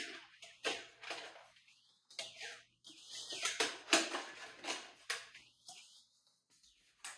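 Plastic crinkling and clicking as a portable air conditioner's flexible exhaust hose and its end connector are handled and twisted together, in short irregular bursts.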